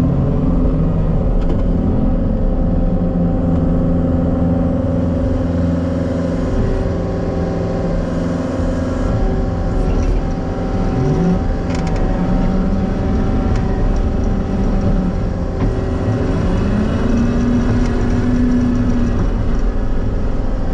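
John Deere 333G skid loader's diesel engine running steadily under work, its pitch rising about eleven seconds in and again near sixteen seconds as it revs up.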